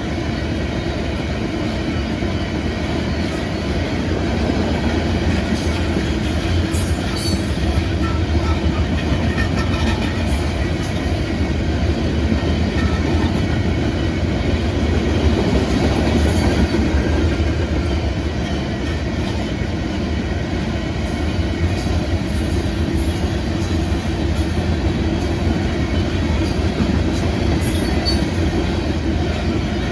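Loaded rock train cars rolling past at speed: a steady rumble of wheels and clatter over the rails, swelling a little partway through, with faint high wheel squeals now and then.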